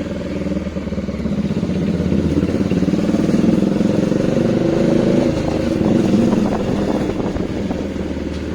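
Bajaj Dominar 400's single-cylinder engine running under way through its new aftermarket exhaust, the note swelling a little with the throttle about five to six seconds in.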